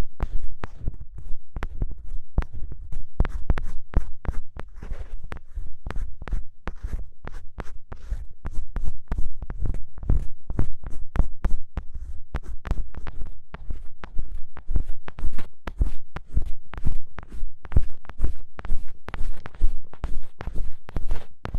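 Ear pick scratching firmly in quick, rough strokes several times a second, each stroke with a deep thud from being worked close on the microphone.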